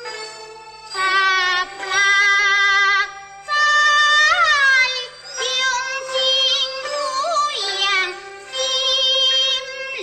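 Teochew opera singing: a high voice holding long, wavering notes in phrases of a second or two, with short breaks between them.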